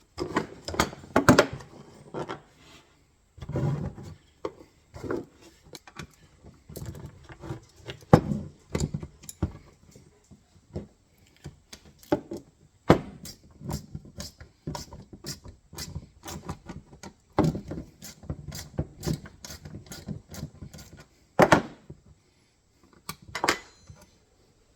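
Irregular metal clicks, clinks and knocks of a wrench working the 7/16 bolts off the steel base plate of an MB 550 foothold trap, with parts and tools handled between turns.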